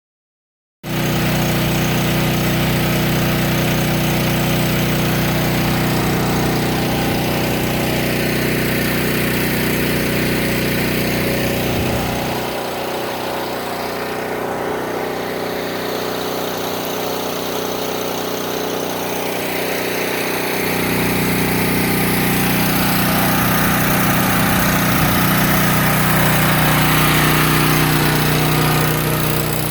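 A motor running steadily, with a low hum over a constant hiss. The lowest part of the hum drops away for several seconds in the middle, then returns.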